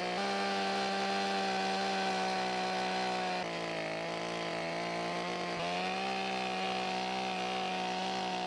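Chainsaw running steadily as it carves wood. Its pitch dips slightly about three and a half seconds in and comes back up about two seconds later.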